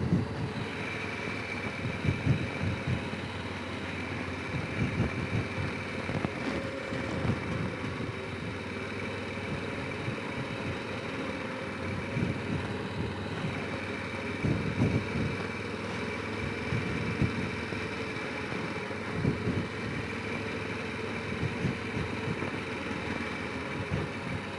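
Honda Rincon 650 ATV's single-cylinder four-stroke engine running while the quad is ridden, with a steady high whine and irregular low thumps.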